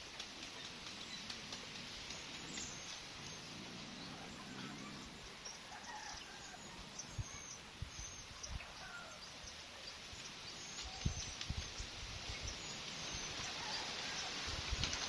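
Faint outdoor ambience with short bird chirps now and then, and a few low thumps in the last few seconds.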